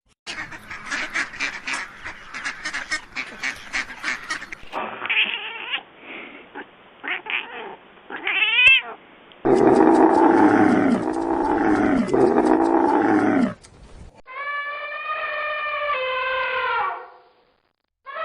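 A run of separate animal-call clips, among them cats meowing and yowling: rapid chattering calls for the first few seconds, then loud drawn-out arching calls, then a long, even call near the end.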